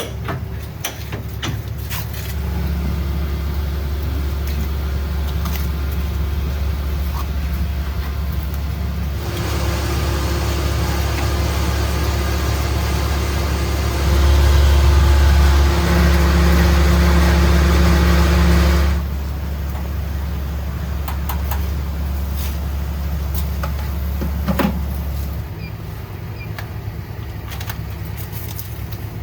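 Semi-truck's engine running: a steady low drone that grows louder for about five seconds midway through, then settles back.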